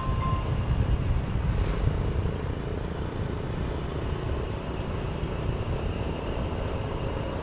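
Road traffic and vehicle noise mixed with a steady low rumble of wind on the microphone.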